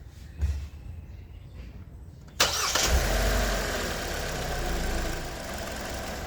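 Kia Sportage engine cranked and started about two and a half seconds in, then running at idle, its level easing slightly as it settles.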